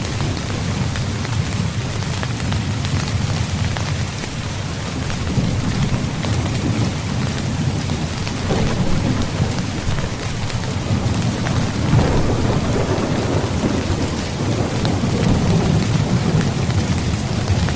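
Steady rain falling on a tent, an even hiss of drops with a deep low rumble under it that swells about twelve seconds in.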